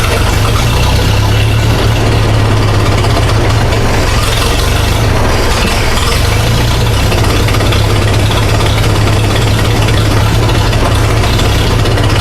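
Massey Ferguson 65 tractor's four-cylinder gasoline engine running steadily at a low, even speed, on its first test run after a new manifold gasket was fitted, with the carburettor not yet adjusted.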